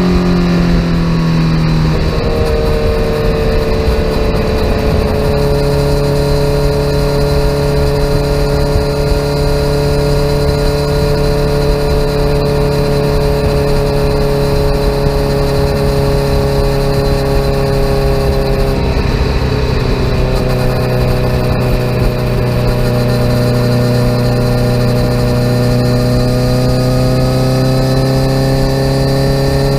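2017 Kawasaki Z900's inline-four engine with an aftermarket full exhaust system, heard while riding. The engine note drops in the first couple of seconds, then holds a steady cruising note. About two-thirds of the way through it dips and changes pitch, then climbs slightly toward the end.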